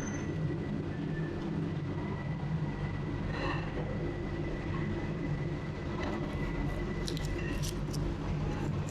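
Steady low mechanical hum of a revolving sushi restaurant, with a faint thin high tone held for several seconds and a few light clicks near the end.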